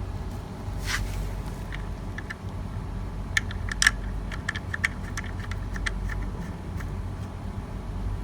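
Steady low machine hum during an air-conditioner installation, with a short hiss about a second in and a flurry of light metallic clicks and taps in the middle.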